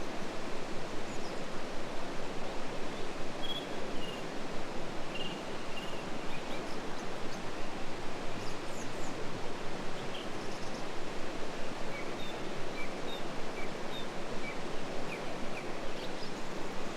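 Flowing river water making a steady rushing babble, with scattered short bird chirps over it.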